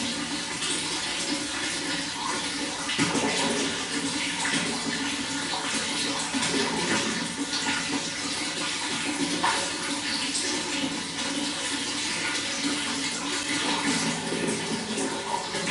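Running water: a steady rush dotted with many small splashes.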